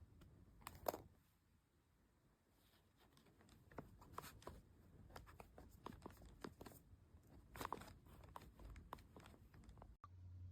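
Faint handling noises: scattered small clicks and rustles, with one sharper click about a second in.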